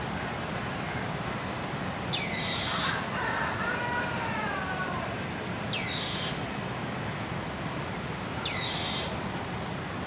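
A bird calling three times, about three seconds apart: each call a loud, sharp high note that sweeps steeply down. Between the first two calls there is a softer, wavering call.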